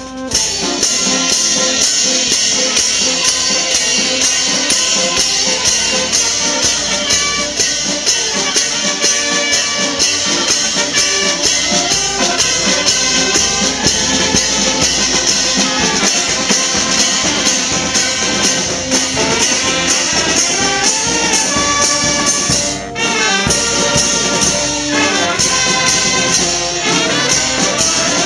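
Town brass band playing, its trumpets and trombones carrying the tune, over a steady high hiss. The playing breaks off briefly near the end and then starts again.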